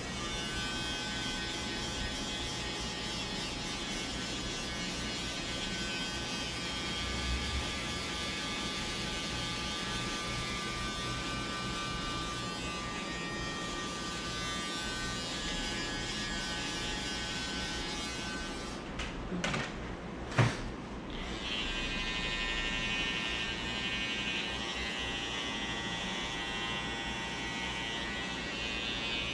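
Electric hair trimmer buzzing steadily while it cuts a line-up along the hairline. About two-thirds of the way through it stops with a couple of sharp clicks, then buzzes again with a brighter, higher tone.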